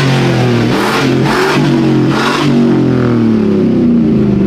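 Truck engine revved hard in several bursts, its pitch sliding up and down, with loud exhaust blasts in the first couple of seconds.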